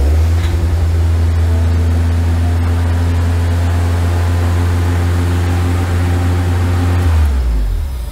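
Toyota AE86's four-cylinder engine running loud at a steady, much too high idle, around 3,000 rpm. Near the end the engine note drops away and it stops.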